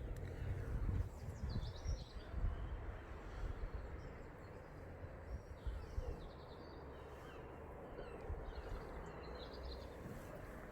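Small birds chirping in short phrases several times over a steady low rumble of wind and outdoor noise.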